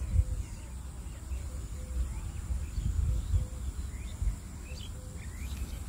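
A low, uneven rumble with scattered faint bird chirps.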